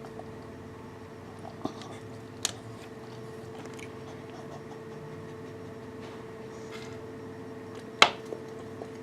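Burning wood fire crackling, with scattered sharp pops over a steady low hiss; the loudest pop comes about eight seconds in.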